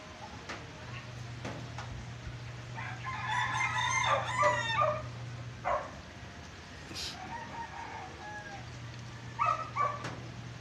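A rooster crowing once, a pitched call of about two seconds starting roughly three seconds in, with a shorter call near the end, over the even hiss of falling rain and a low steady hum.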